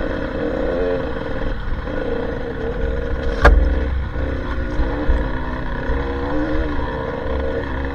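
Dirt bike engine running, its note rising and falling with the throttle, with low rumble throughout. A single sharp knock sounds about three and a half seconds in.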